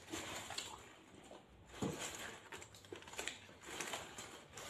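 Faint chewing and wet mouth clicks from someone eating a shawarma wrap, mixed with light crinkling of aluminium foil as it is handled.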